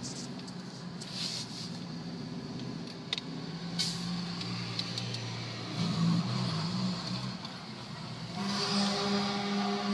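Motor vehicle engines running steadily, with a few sharp clicks about three to four seconds in. Near the end a louder, steady pitched hum with many overtones joins, typical of a large truck.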